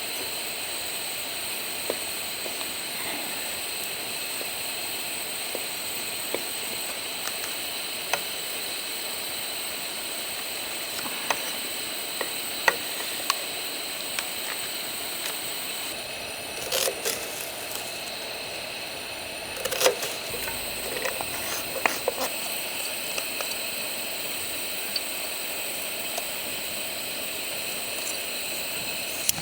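Wood fire burning with a steady hiss and scattered small crackles, and a few louder knocks and clatters of cooking gear just past the middle.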